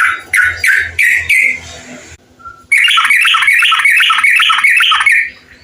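Trucukan (bulbul) calling: a few short chirps, then after a brief pause a fast run of notes, about five a second, for over two seconds.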